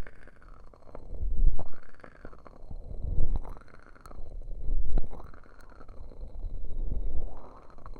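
Ear cupping on a 3Dio binaural microphone: its ears are covered and pressed in slow, rhythmic swells about every second and a half, each a muffled rumbling whoosh. Soft crackles of a wood-wick candle run underneath.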